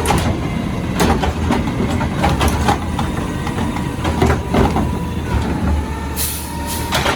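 Garbage truck engine running with a steady low rumble, broken by a series of sharp clanks and knocks, and a short hiss of air about six seconds in.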